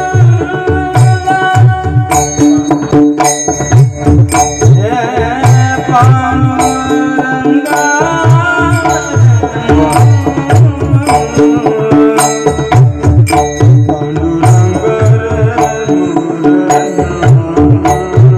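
Devotional bhajan music. A hand drum beats a steady rhythm under sustained melodic tones, with frequent sharp strikes.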